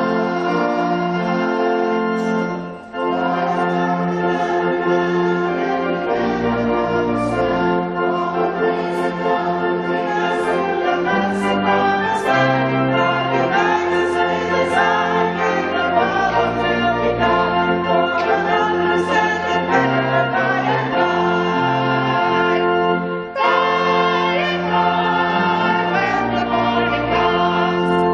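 Voices singing a church hymn or anthem with organ accompaniment, in held chords over a moving bass line, with two brief breaks between phrases.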